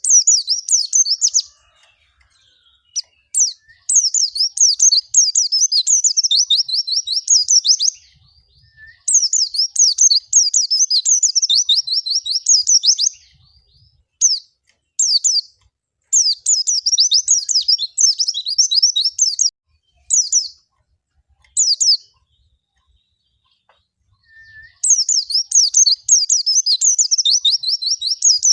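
A white-eye (pleci) singing a rapid, high twittering song in bursts of a few seconds, with short pauses between them.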